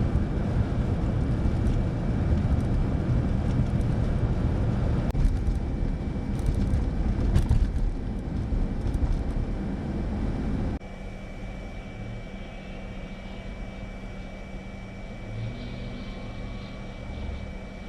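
Vehicle and wind noise: a loud rumbling roar until an abrupt cut about eleven seconds in, then a quieter steady hum with a faint high whine.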